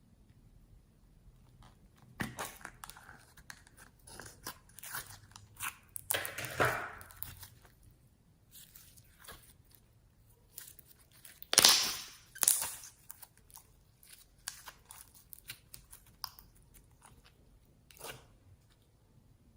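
Slime being worked and mixed by hand, giving irregular crunching, crackling and popping clicks, the loudest crunches about twelve seconds in.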